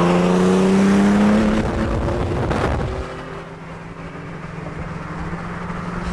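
Car engine under hard acceleration, its note climbing steadily, then backing off about a second and a half in. A short swish follows, and then a steadier, quieter drone of engine and road noise.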